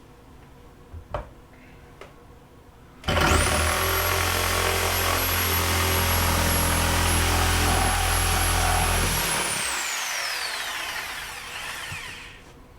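A few faint knocks, then a power tool's motor spins up quickly with a high whine, runs steadily for about six seconds, and winds down with a falling pitch as it coasts to a stop.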